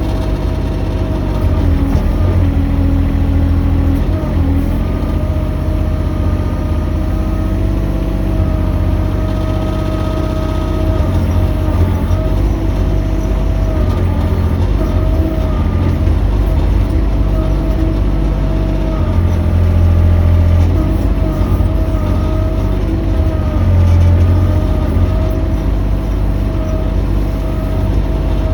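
Mini excavator's engine running steadily under load, with a whine that wavers in pitch and drops out and returns every few seconds as the hydraulics are worked.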